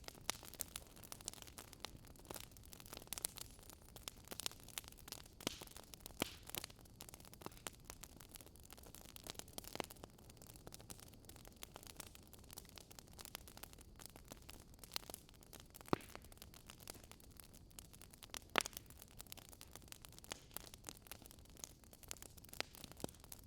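Wood fire crackling quietly, with a steady low hiss and irregular sharp pops and snaps. Two louder pops come about two-thirds of the way through.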